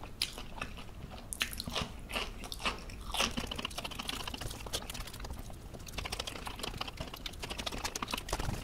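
Close-miked chewing of a mouthful of rice with asam pedas fish curry: a constant run of small wet mouth clicks and smacks, thickest in the second half.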